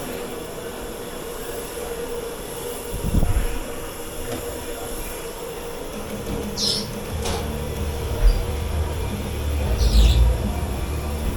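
Dish-pit machinery running with a steady hum and a low rumble that swells about halfway through, with a knock and a couple of short, high clinks of crockery or metal.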